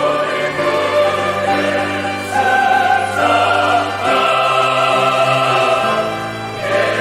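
Church choir singing an anthem in full harmony with piano and organ accompaniment, holding long chords that change every couple of seconds over a sustained low bass.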